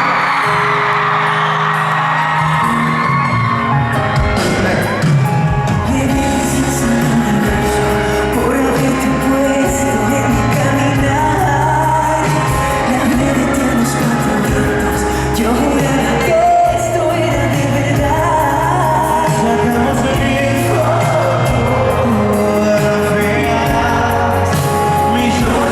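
Male voices singing a Latin pop song over band accompaniment.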